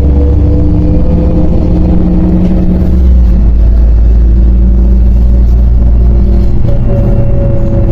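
MAZ 105.065 articulated city bus's diesel engine running under load as the bus drives, a heavy low rumble with an engine note that climbs slowly as it accelerates.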